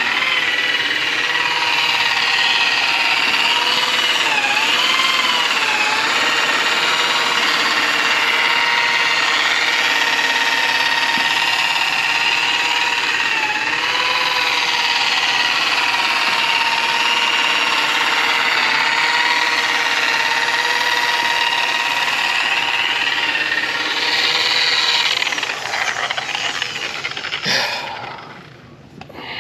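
Electric polisher running steadily with a high motor whine, its pitch dipping briefly a few times, then winding down and stopping near the end.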